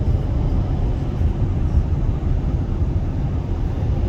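Wind buffeting the microphone: a steady, choppy low rumble.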